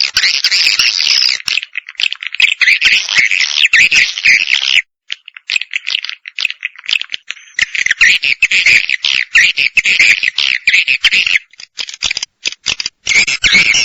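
Recorded swiftlet calls played as a lure to draw swiftlets into a bird house: dense, high twittering chatter mixed with rattling clicks. The chatter breaks off briefly about five seconds in, thins to separate rapid clicks near the end, then comes back.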